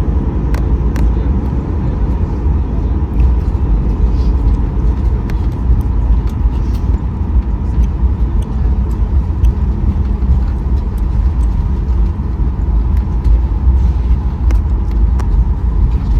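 Cabin noise of a Boeing 737-800 taxiing after landing: the CFM56 engines at idle and the wheels on the taxiway make a steady low rumble, with a faint steady high tone and small clicks and rattles over it.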